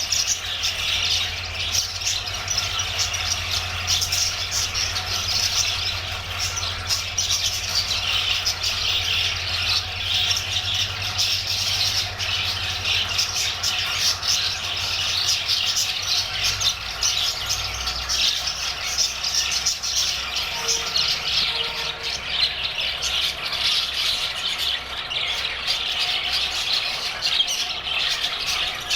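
A group of budgerigars chattering continuously, a dense mix of warbling, chirps and short squawks.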